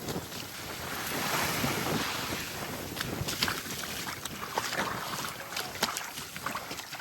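Small waves washing up the beach, the wash swelling about a second in, with wind buffeting the microphone. A scatter of short sharp clicks comes through in the second half.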